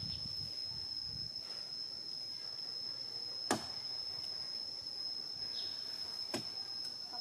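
Insects droning in one steady high-pitched tone, with two sharp clicks, one about halfway through and one near the end.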